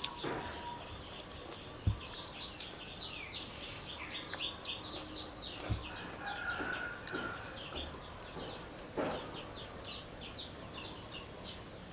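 Small birds chirping steadily, a quick run of short falling chirps repeated many times over, with a few soft knocks about two, six and nine seconds in.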